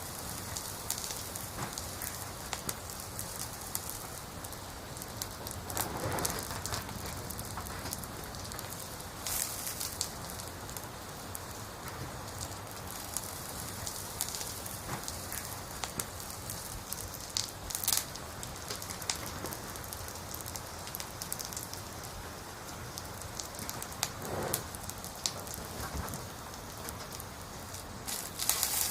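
Campfire of burning firewood: a steady hiss with scattered crackles and occasional louder pops.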